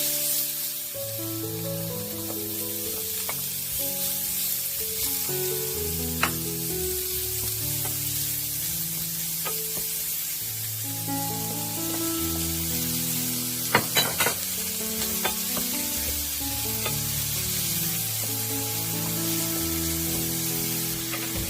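Wood fire crackling in a fireplace: a steady hiss with a few sharp pops, the loudest a cluster about two thirds of the way through. Soft background music plays throughout.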